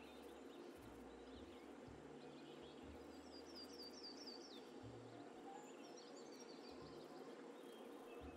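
Faint birdsong over a low hiss: a quick run of high chirps about three seconds in, and a shorter call around six seconds.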